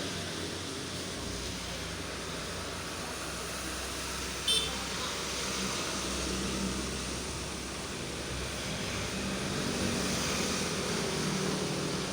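Road traffic going by, with the low rumble of passing vehicles rising and falling, and one short high chirp about four and a half seconds in.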